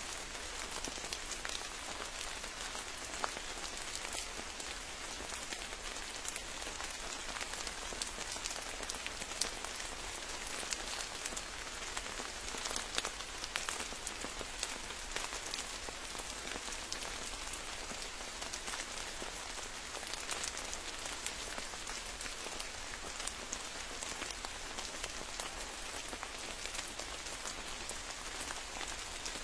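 Steady rain, with many separate drops striking close by at an even rate throughout.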